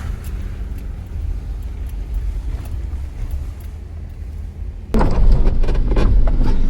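Jeep driving on a snowy road, heard from inside the cab as a steady low rumble of engine and tyres. About five seconds in it suddenly gets louder, with a run of knocks and rattles.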